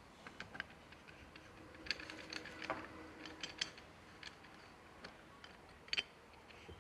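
Light metallic clicks and clinks of motorcycle clutch parts being handled and fitted by hand, irregular, with sharper clicks about two seconds in and near six seconds.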